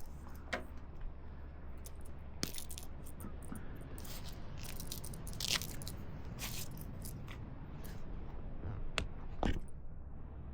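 Handling noise close to the microphone: scattered light clicks and knocks over a steady low rumble.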